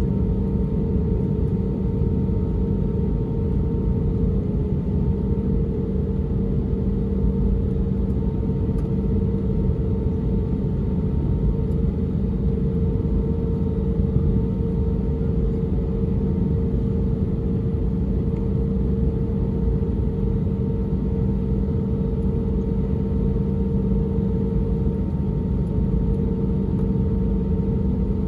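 Steady cabin noise inside an Airbus A320neo: its CFM LEAP-1A engines running with a low rumble and a constant hum.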